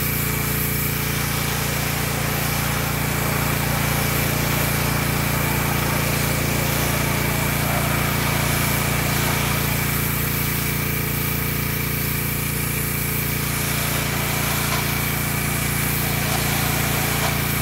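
Pressure washer running steadily under load: a constant small-engine drone with a hiss of spray over it.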